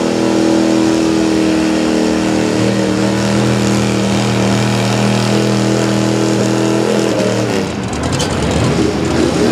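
Pulling truck's engine running at high, steady revs under load, then the revs drop away and waver about three-quarters of the way through.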